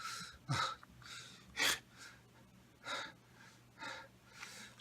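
A man breathing in short, sharp gasps, about one a second, the strongest about a second and a half in.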